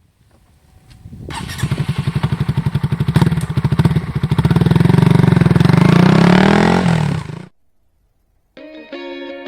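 Honda CB125R's single-cylinder engine, breathing through a LeoVince LV ONE Evo exhaust, running with a fast pulsing beat and revving up and back down near the middle. The sound cuts off suddenly after about seven and a half seconds.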